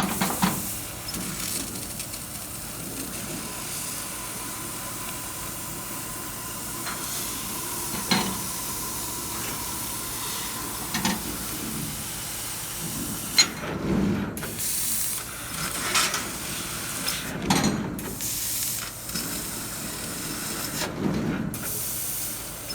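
Fiber laser cutting machine running, with a steady hiss of assist gas at the cutting head that cuts out briefly three times in the second half, as between cuts. There are scattered light knocks and a faint steady tone for a few seconds early on.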